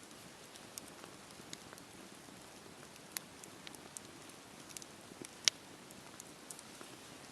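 Campfire burning: a soft steady hiss with scattered sharp crackles and pops at irregular intervals, the loudest about five and a half seconds in.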